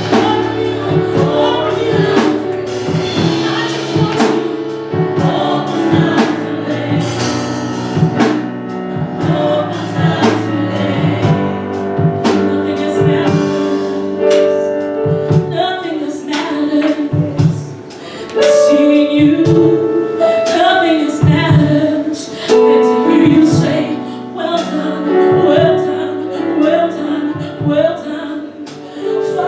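Live gospel music: singers with a choir-like sound over a band with a drum kit, in a steady praise song.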